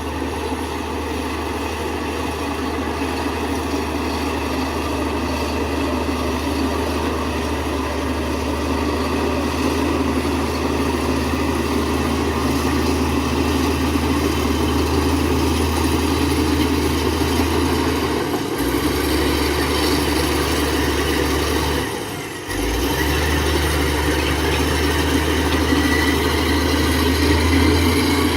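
Heavy diesel engine of an earthmoving machine running steadily, with a brief drop about 22 seconds in before it picks back up.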